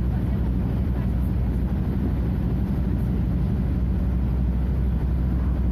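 Scania F250HB bus's DC09 five-cylinder diesel engine running at a steady pitch.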